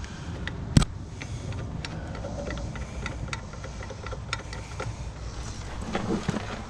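Metal hardware and tools handled while fitting a truck's front strut assembly: one sharp knock just under a second in, then scattered light clicks and ticks over a steady low rumble.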